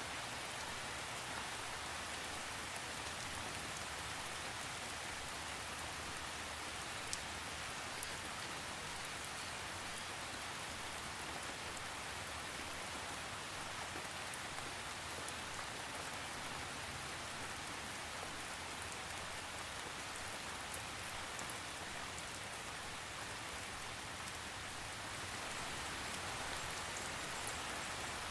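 Steady rain falling and pattering on a surface, with no thunder, and a few louder single drop ticks.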